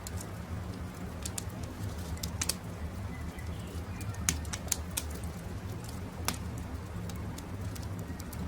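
Wood campfire crackling, with sharp irregular pops over a steady low rumble, and birds calling in the woods behind.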